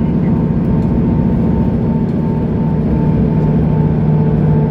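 Mercedes-Benz O530 Citaro Facelift Ü city bus running steadily under way, heard from inside the bus: a steady low diesel drone with a thin high whine above it.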